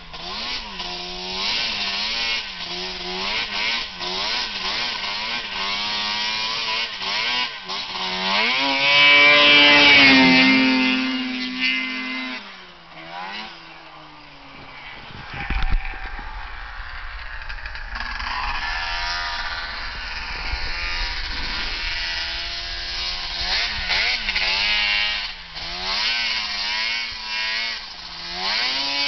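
Arctic Cat big bore 800 two-stroke twin snowmobile engine idling and blipped repeatedly, with one long rev to high speed about nine seconds in that falls back to idle. The engine is being tuned with a Boondocker fuel controller to cure a low-end bog. A low rumble joins about halfway through.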